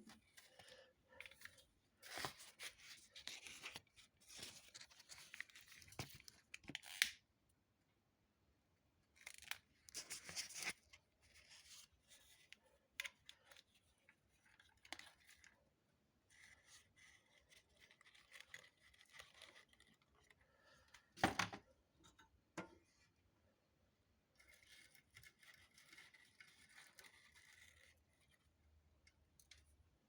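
Faint, scattered rustling, tearing and crinkling of paper and kindling while a fire is laid in a solid-fuel boiler, with one sharp knock about 21 seconds in.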